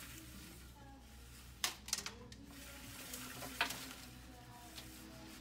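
A few sharp clicks and clacks from handling tools, wires and parts, over a steady low hiss and hum: a cluster of them a little past a second and a half in, and a single loud click at about three and a half seconds.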